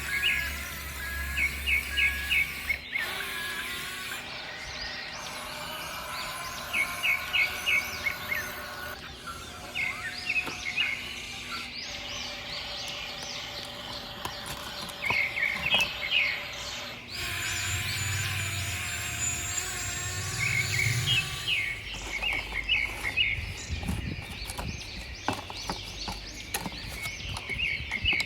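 Small birds chirping in quick repeated bursts over outdoor background noise, with the background changing abruptly every few seconds.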